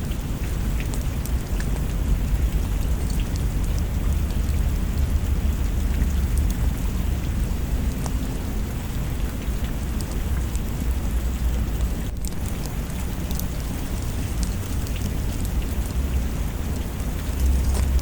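Steady rain falling, with a continuous low rumble of thunder beneath it and scattered sharp drips or ticks.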